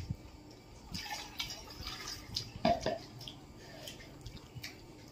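Eating sounds of a person chewing masala dosa: short wet clicks and smacks from the mouth, with a louder smack a little past halfway.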